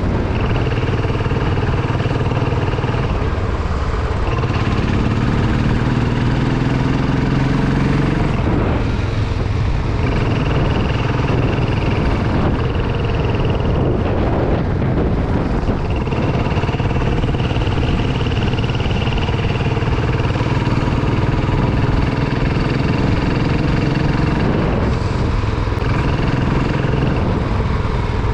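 Motorcycle engine running under way, its pitch climbing a few times as it accelerates, over a heavy steady low rumble of wind and road.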